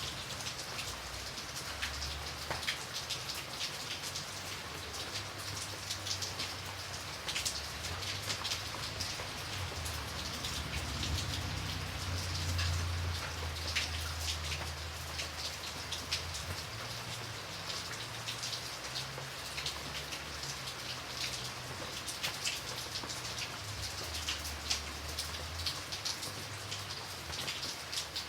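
Steady rain, with many individual drops striking a surface close by. A low rumble runs underneath and grows louder about halfway through.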